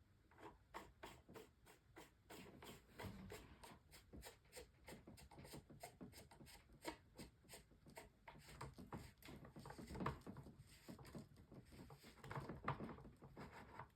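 Faint, irregular clicking and rubbing of plastic parts as a cheap 12-inch oscillating table fan is handled and its head tilted; the tilt joint is a little stiff.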